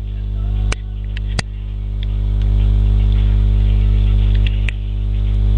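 Loud steady electrical mains hum, with a few sharp clicks about a second in, near a second and a half, and near the end.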